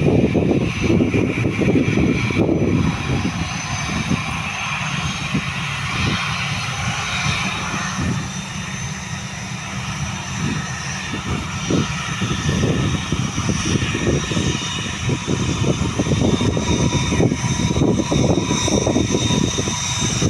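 Airbus A320-214 CFM56-5B jet engines running during takeoff: a loud, steady rumble with a high whine.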